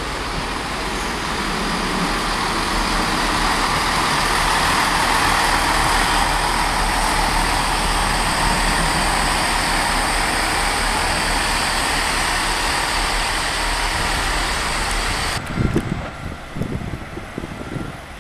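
Arriva Trains Wales passenger train rolling past, a steady rush of wheel-on-rail noise that builds over the first few seconds and holds. About fifteen seconds in it cuts off abruptly, leaving irregular low buffeting on the microphone.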